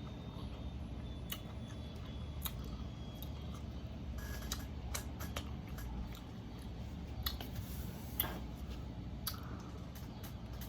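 Close-miked chewing of a taco: irregular soft mouth clicks and smacks over a steady low rumble.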